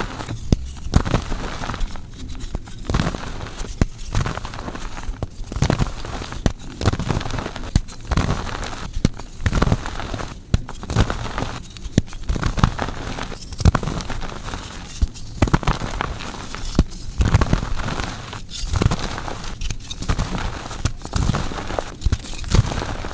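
Blocks of gym chalk being crushed and crumbling, a crackly crunching repeated in bursts about every second.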